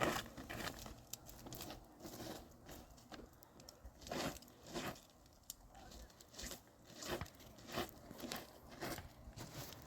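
Snow crunching in a series of uneven, faint crunches, about one or two a second with short pauses.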